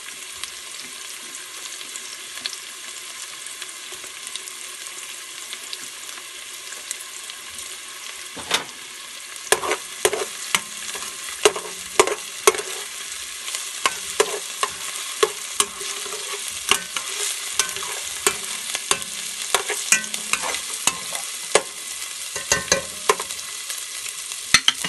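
Chopped onions with minced ginger and garlic sizzling steadily in hot oil. From about eight seconds in they are stirred, and the utensil scrapes and knocks against the pot many times.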